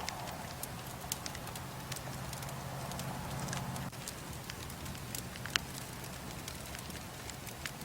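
Wood bonfire burning, with scattered sharp crackles and pops over a steady low rumble. The loudest pop comes about five and a half seconds in.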